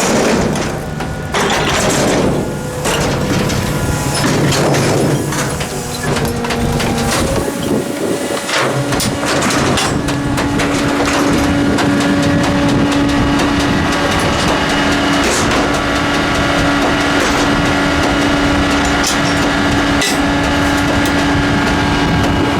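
Ford L8000 front-loading garbage truck at work: irregular crashing and knocking of trash and metal for the first several seconds, then the steady whine of the Loadmaster's hydraulic pump from about ten seconds in.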